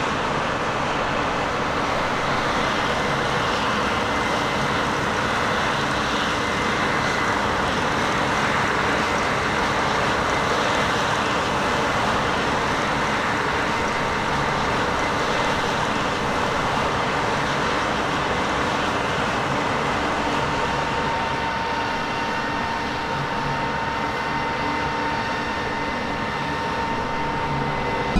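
Farm machinery running steadily: a constant mechanical hum and rush with faint steady tones, and a thin whine coming in about halfway through.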